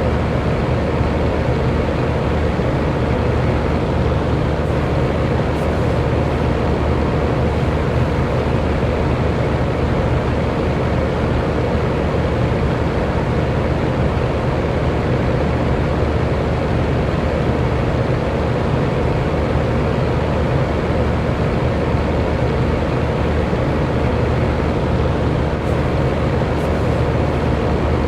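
Electric fan running steadily: an even rush of air with a constant motor hum underneath.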